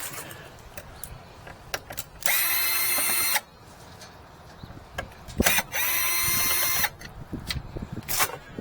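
Power drill running in two short bursts of about a second each, with small clicks and knocks of handling between them: backing out the refrigerator door hinge screws.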